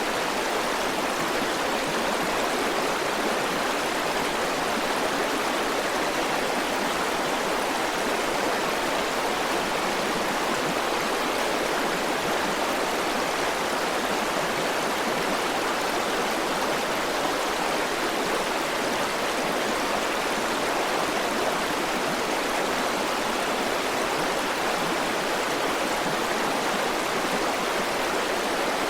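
River water flowing over rocks, a steady even rush without let-up.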